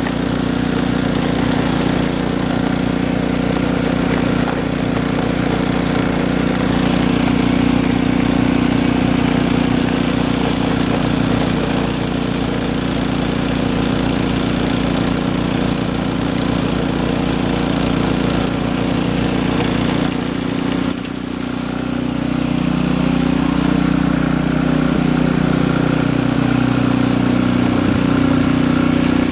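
Gas snowblower engine running steadily while clearing snow, with a brief dip in level about two-thirds of the way through.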